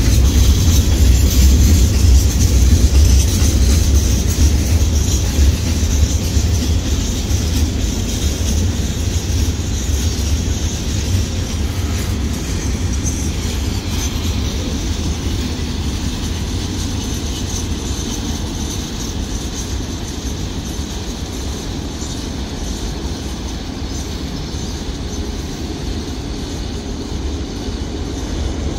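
Freight train of container flat wagons rolling past, its wheels running steadily on the rails with a deep rumble. The sound gradually fades as the train draws away.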